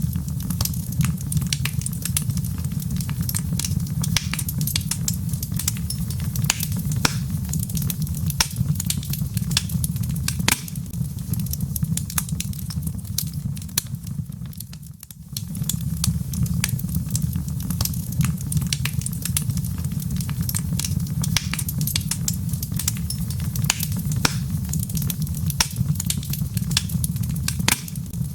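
Wood fire crackling, with many small sharp pops and snaps over a steady low rumble. The rumble drops away briefly about halfway through, then returns.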